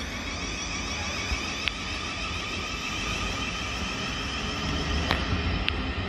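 Electric multiple-unit train running through the station: a steady rumble with a high whine, and a few sharp clicks from the wheels.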